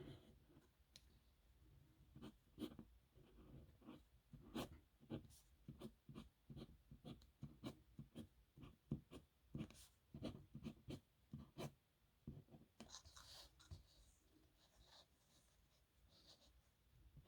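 Faint scratching of a nib pen on paper: many short strokes and taps, with a few longer scratchy strokes about thirteen seconds in.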